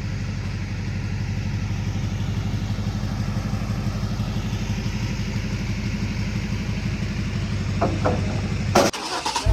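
A vehicle engine idling steadily with a fast, even pulse. It cuts off abruptly near the end.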